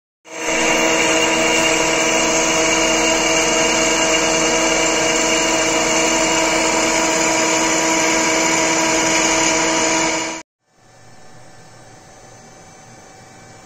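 Home-made lathe's electric motor and drive running steadily, a loud whining hum with several steady tones. It cuts off abruptly about ten seconds in, leaving a much quieter steady hum.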